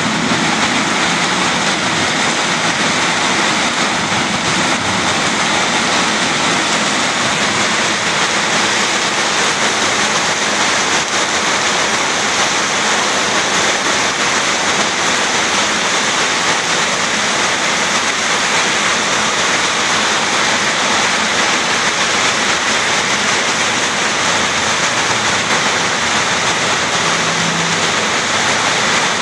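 Heavy tropical downpour pouring onto a street and roofs: a loud, steady, dense rush of rain with no letup.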